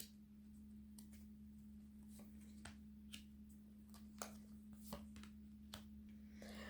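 Near silence with faint, scattered clicks and rustles of tarot cards being handled and laid out, over a steady low hum.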